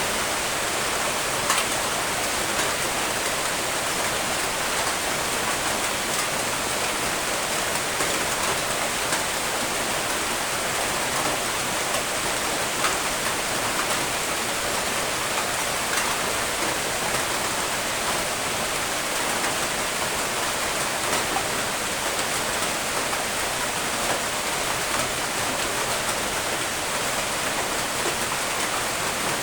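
Steady rain falling: an even, constant hiss with a few scattered louder drop ticks.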